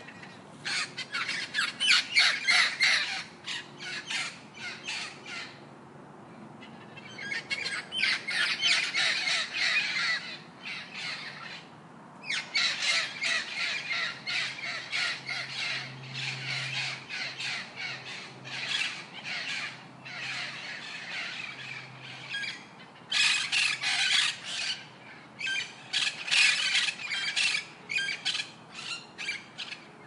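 Birds calling in rapid, chattering runs of short high-pitched squawks and chirps, in several stretches with brief lulls between them.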